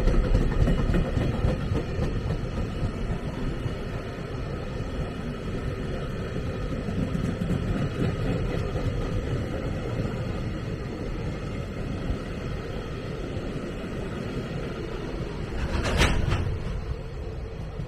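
A train running past on the line: a steady rumble of wheels on rail, loudest at the start and easing off, with a brief louder burst near the end.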